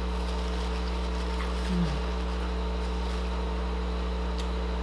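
A steady low hum, with a short falling murmur about two seconds in.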